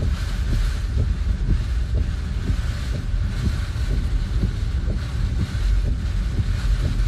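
Strong storm wind buffeting the microphone in steady, uneven gusts, with a rushing hiss of wind-driven weather behind it.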